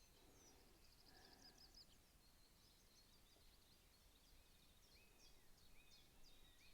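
Faint birdsong: quick runs of high chirps, joined near the end by short, lower whistled notes.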